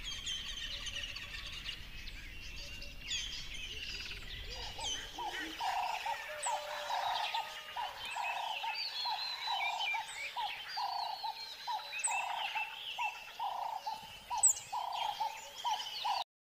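A chorus of wild songbirds chirping and whistling. From about five seconds in, a lower note repeats about twice a second. The sound cuts off abruptly near the end.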